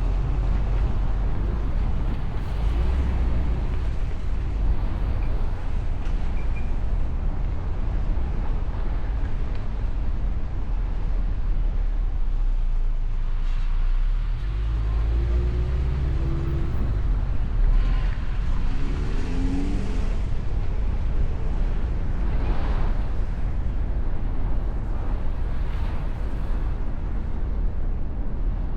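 Mustang convertible driving through town: steady low engine and road rumble with wind noise. Between about 15 and 20 seconds in, a few short pitched sounds rise and fall above the rumble.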